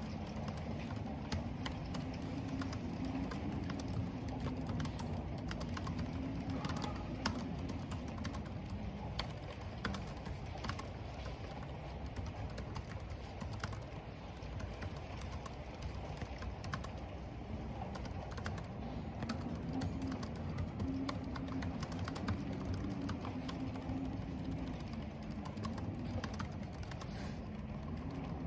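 Computer keyboard typing: irregular key clicks over a steady low rush of wind and rain. A low drone swells and fades twice.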